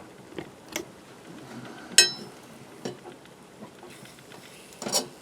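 Scattered light metal taps and clicks of cookware, with one sharp ringing clink about two seconds in and a quick flurry of clatter near the end: a metal fork working against a cast iron frying pan.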